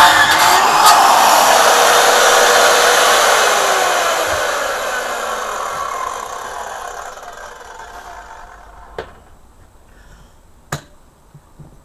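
Corded electric power saw running after a cut through wood, its motor whine falling in pitch and fading over several seconds as it winds down. Two sharp knocks follow near the end.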